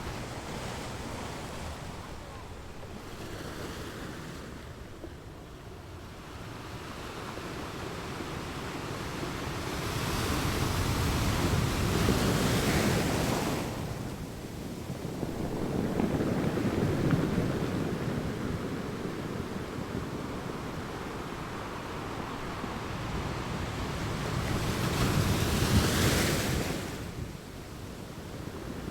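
Ocean surf on a beach: waves breaking and washing in and out over a steady hiss. There are two loud breaks, about a third of the way in and again near the end, with a deeper, lower surge between them.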